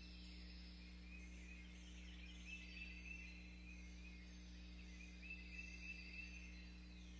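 Faint birdsong: phrases of short repeated notes and a few falling whistles, over the recording's steady low electrical hum.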